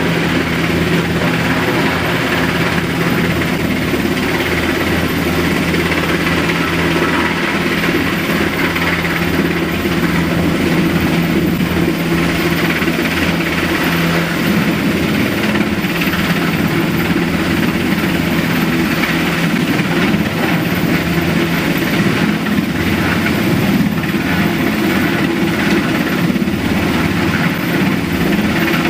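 Helicopter running close by during a medical evacuation from a cruise ship, a steady engine and rotor drone muffled through a glass door; its low hum steps up in pitch about halfway through.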